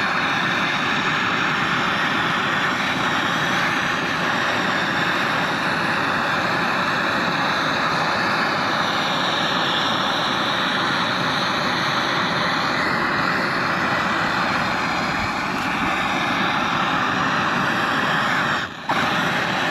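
Gas torch flame burning with a steady hiss. It is heating the part that the new wheel bearing goes into, so the metal expands to take the bearing. The sound drops out for a moment near the end.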